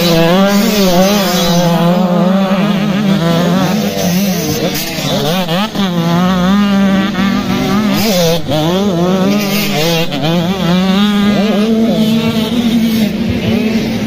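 Several motocross bike engines revving up and down as they ride the track, their pitches overlapping and rising and falling, over a steady engine drone.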